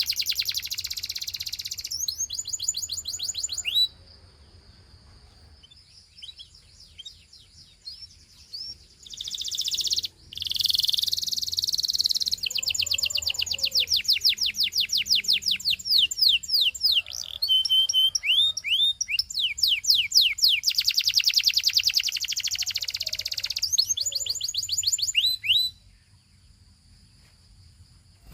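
Gloster canary singing in long, high-pitched trills of rapidly repeated sweeping notes. A phrase over the first few seconds is followed by a few seconds of scattered soft notes, then a long run of song that stops a couple of seconds before the end.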